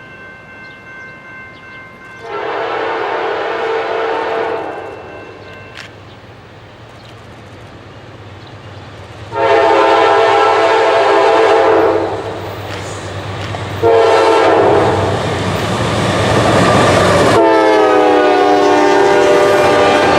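Freight locomotive's multi-note air horn sounding four long blasts as the train approaches. Its chord drops in pitch at the start of the last blast as the locomotive passes, over the rising rumble of the train.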